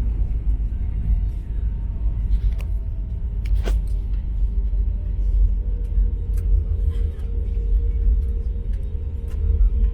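Steady low rumble inside a passenger airliner's cabin as it lands, with scattered small clicks and knocks.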